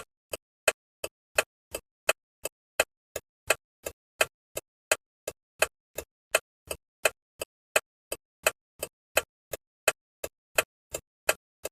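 A bus's turn-signal indicator ticking steadily, about three sharp ticks a second, alternating louder and softer clicks.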